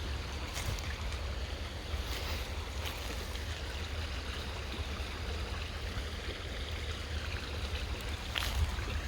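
Creek water rushing steadily, over a low rumble of wind on the microphone, with a few short noises on top.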